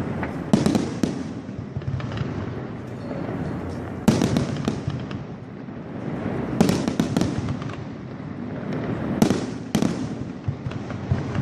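Fireworks going off: sharp bangs every few seconds, each trailing off in a rolling echo, over a continuous background of crackle and rumble.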